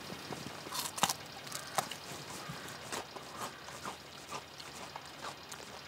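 Someone biting and chewing a raw cardoon stalk: a crisp crunch about a second in, then scattered small crunching clicks of chewing.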